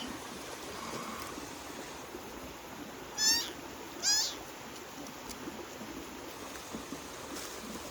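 A kitten meowing twice, two short high-pitched meows about a second apart, over a steady background hiss.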